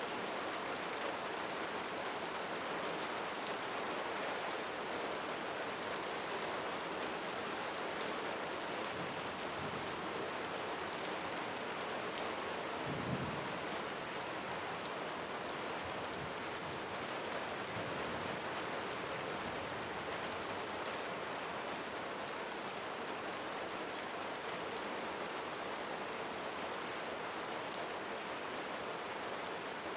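Steady rain falling on leaves, with single drops ticking here and there. A brief low rumble swells up around the middle.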